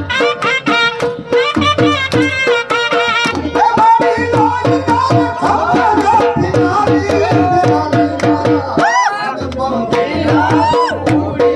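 Gujarati folk music: a dhol drum beating a quick, steady rhythm under an ornamented melody that bends and slides in pitch.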